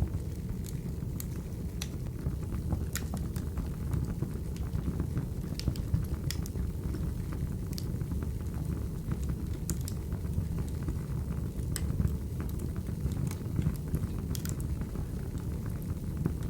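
Burning firewood: a steady low rumble with irregular sharp crackles and pops.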